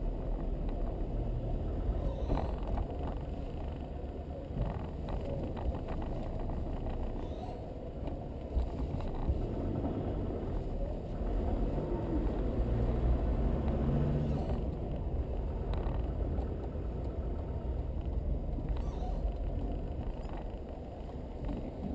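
Land Rover Defender 90 driving slowly, its engine and road noise a steady low rumble with a few faint knocks.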